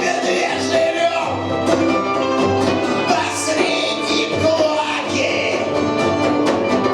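Punk rock band playing live: electric guitars, bass and drums.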